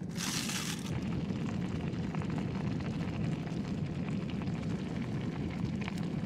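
Wind buffeting the microphone: a steady low rumble, with a short hiss in the first second.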